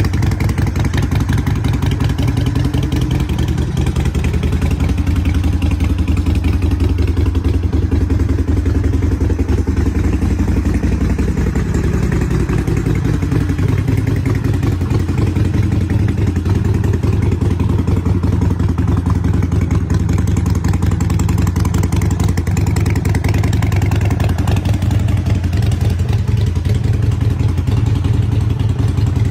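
Harley-Davidson Nightster's 1200 cc air-cooled V-twin running steadily through Vance & Hines short exhaust pipes.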